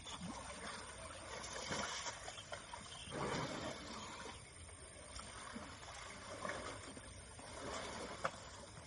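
Water splashing and sloshing in uneven swells, with a sharp knock near the end.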